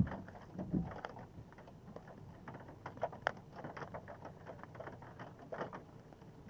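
Rain pattering, with many separate drops tapping irregularly, and a low thump at the very start.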